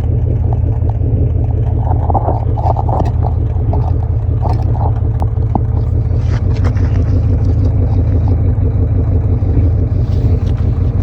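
1992 4.9-litre V8 running steadily through a muffler-delete exhaust, a loud, even low rumble.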